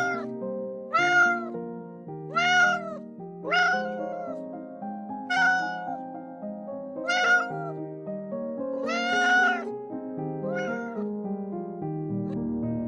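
Domestic cat meowing about eight times, each meow rising then falling in pitch, a second or two apart, over background music of sustained notes.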